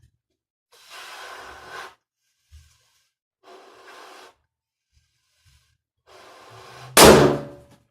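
Three long breaths blown into a large crystal latex balloon, then a sudden loud bang near the end as the balloon bursts.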